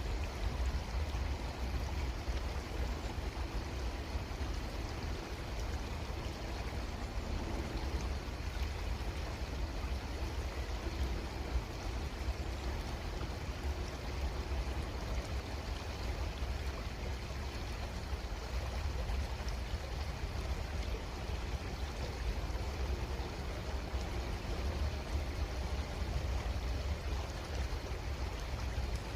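Creek water flowing steadily, with a low rumble underneath.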